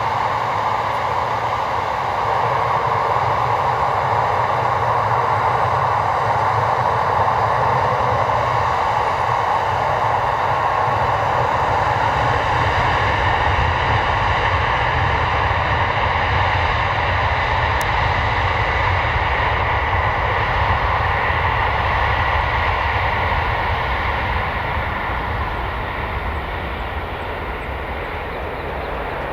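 Embraer 195 jet airliner's twin GE CF34 turbofans at takeoff power, a loud steady jet roar. About halfway through the high hiss fades, and near the end the sound drops off as the aircraft climbs away.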